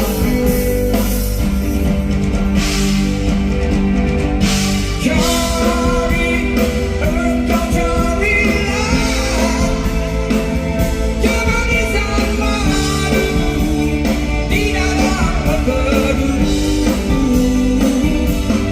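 Live rock band playing a Malay song, with guitar and drums under a male lead vocal.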